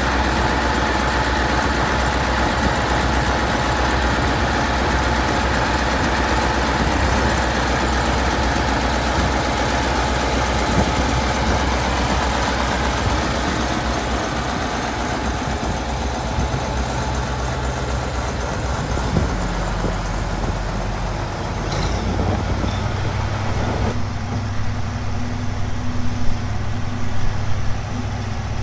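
Massey Ferguson V8 tractor engine running steadily, with a deep engine note. The note changes about two-thirds of the way through, and the sound becomes more uneven near the end.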